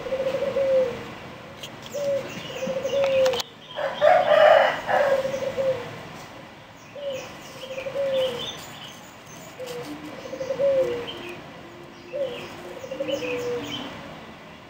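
Birds calling: a low two-part call, a short note and then a longer falling one, repeated every two to three seconds, with higher chirps in between and a louder, harsher call about four seconds in.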